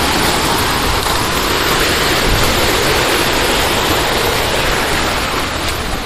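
Waterfall rushing close by: a steady, loud wash of falling water.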